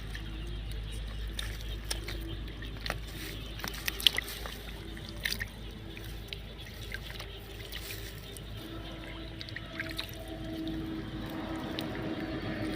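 Water splashing and trickling, with scattered small splashes and drips over a low rumble.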